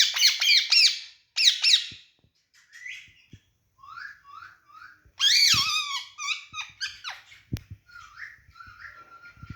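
Pet green parrot calling: rapid loud, harsh squawks in the first second and again at about one and a half seconds, then softer chirps and whistled notes, with another loud burst of calls around the middle.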